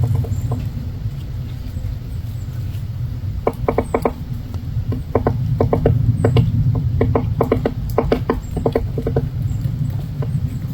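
Small woodpecker tapping at wood, in short bursts of a few quick strikes every second or two, over a steady low rumble.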